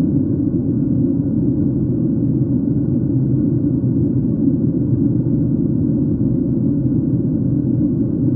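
Airliner cabin noise: the steady low rumble of the engines and the airflow over the fuselage, heard from inside the cabin, with no change in pitch or level.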